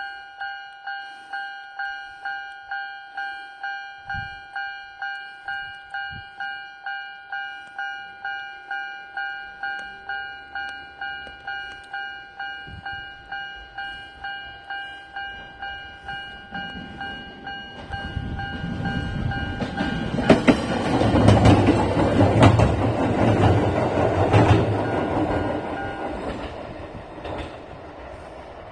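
Japanese level-crossing alarm dinging rapidly and steadily, about two strikes a second. An Ichibata Electric Railway 7000-series electric railcar then approaches and passes close by from about 17 s, its wheels clicking over the rail joints, loudest a little past the midpoint of the pass. The crossing alarm stops about 20 s in, and the train's sound fades away near the end.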